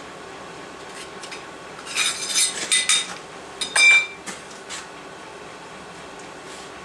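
Steel blacksmithing tools and bar stock clinking against each other and the anvil: a cluster of ringing clinks about two seconds in, then a sharper single ringing clink near four seconds.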